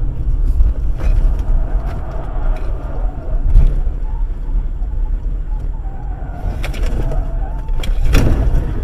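Car on the road: a steady low rumble of engine and tyres, with a few sharp knocks and clatters, the loudest about three and a half seconds in and another near the end.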